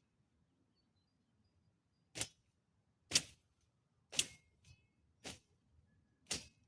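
Short, sharp swishing strokes of a gardening hand tool, about one a second, starting some two seconds in; a few end with a brief high metallic ring.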